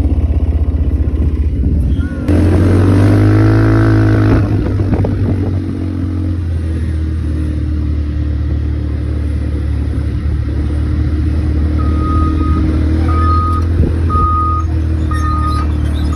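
ATV engine running steadily, its pitch rising and falling briefly about two seconds in. Near the end, a short electronic beep starts repeating about once a second.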